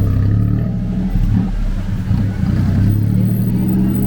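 Motor vehicle engine running close by in street traffic, a steady low hum.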